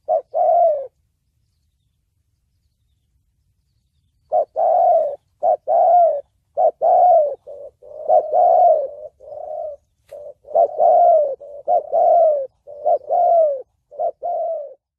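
Spotted dove cooing in the 'thổ bầu' calling style: two coo notes, a pause of about three seconds, then a long run of repeated coos, each note dropping slightly in pitch.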